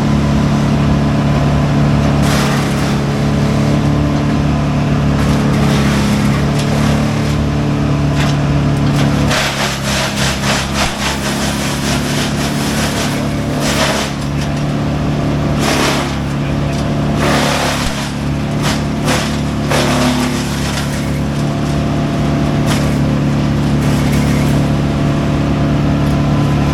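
Heavy diesel machinery running steadily on the tree-removal site, its engine note shifting about nine seconds in, with repeated short louder bursts of noise over it.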